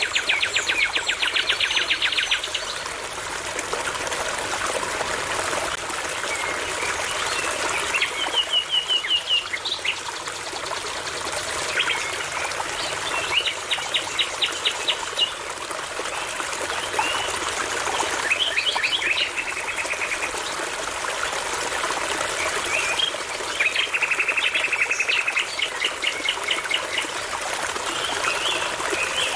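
Nightingale singing in five separate phrases of fast repeated notes, spaced a few seconds apart, over the steady trickle of a brook.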